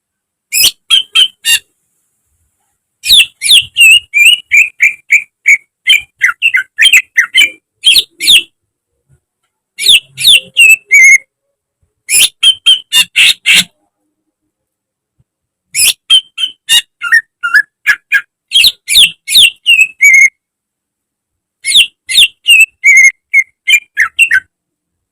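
Cucak ijo (green leafbird) singing in about six phrases of fast, varied chirps and whistled notes, with dead-silent gaps between them.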